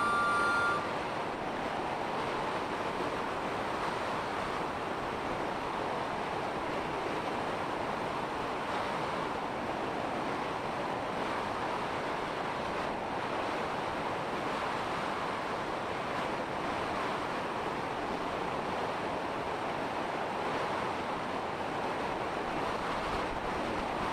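Steady rushing wind noise from strong wind blowing over the microphone, an even hiss with no engine or voice.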